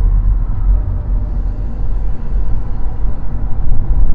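Loud, fluctuating low rumble of a BMW 328i convertible under way: road noise and wind buffeting the microphone.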